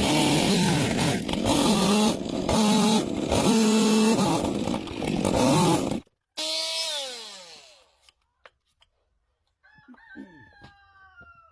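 Chainsaw cutting into a log at high revs, its pitch rising and falling under load for about six seconds. Then the throttle is released and the engine winds down in a falling tone, with faint clicks and falling tones near the end.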